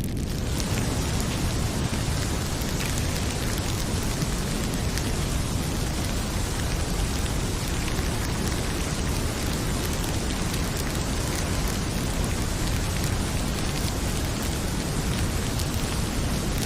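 Heavy rain pouring steadily, with a few faint pops from a crackling wood fire.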